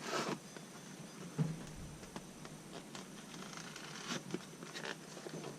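Faint handling noise of packaging being unpacked: a few light clicks and soft rustles.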